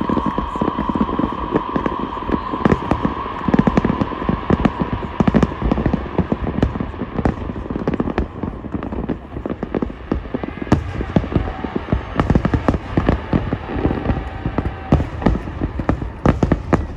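Aerial fireworks going off in quick succession: a dense run of sharp pops, crackles and booms, thinning out briefly about halfway through.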